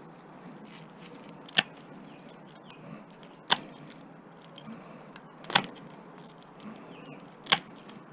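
Sharp snips of a cutting tool biting through the copper windings of a small appliance motor: four crisp clicks about two seconds apart, over light handling noise.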